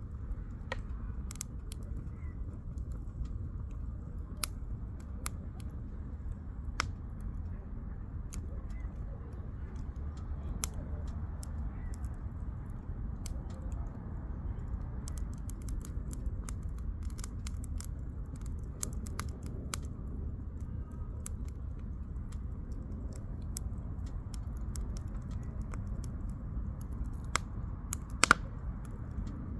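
Firewood burning in a campfire, crackling with sharp irregular pops and snaps, the loudest near the end, over a low steady rumble.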